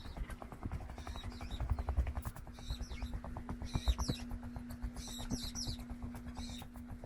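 Birds chirping: short high calls with quick falling notes, repeated about once a second, over a steady low hum and irregular low rumbling thumps.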